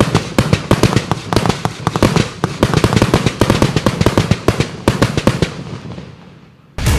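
A 100-shot 1.2-inch compound fireworks cake firing a rapid volley of shots with crackling glitter effects, several reports a second. The volley thins out and dies away about six seconds in.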